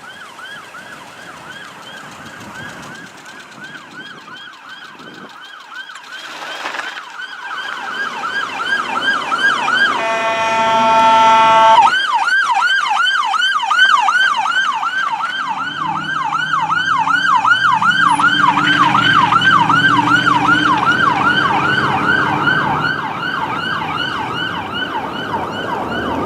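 Fire truck siren wailing in a rapid yelp, getting louder as the truck closes in. About ten seconds in, the siren gives way to a horn blast of about two seconds, then the yelp resumes.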